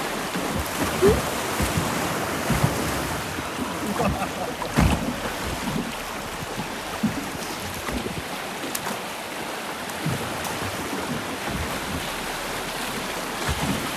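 River water rushing and splashing around a drift boat, with a few sharper splashes along the way and wind buffeting the microphone.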